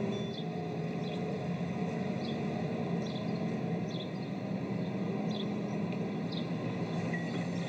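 A vehicle engine running steadily, with short high chirps every second or so.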